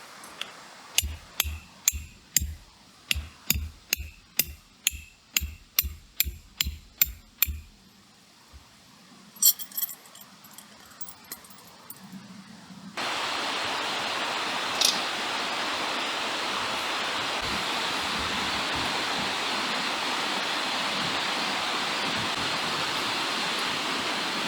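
A run of about sixteen sharp knocks with a dull thud each, roughly two a second, like hammering at a campsite, followed by a few light metallic clinks. About halfway through, a steady rushing noise like flowing water starts abruptly.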